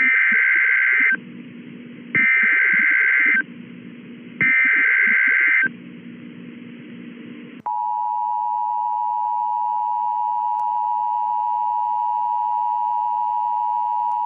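Emergency Alert System broadcast tones: three short screeching data bursts of the coded alert header, each about a second long, then the steady two-tone attention signal, which starts about 7.7 s in. It announces an emergency warning, here a tornado warning.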